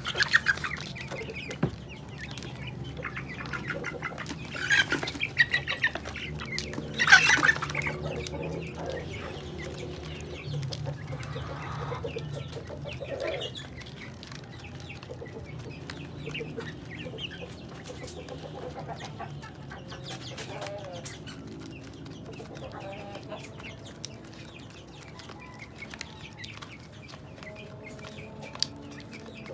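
Chickens clucking on and off, with a few louder calls near the start, about five seconds in and about seven seconds in, over a steady low hum.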